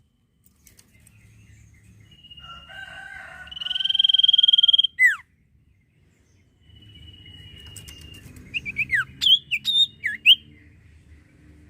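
A sirtu songbird singing. It gives a high whistle held for about two seconds that ends in a sharp downward slur. Then comes another long whistle and a quick run of short, sharply falling notes near the end. A lower, rougher call sounds under the first whistle, over a faint steady hum.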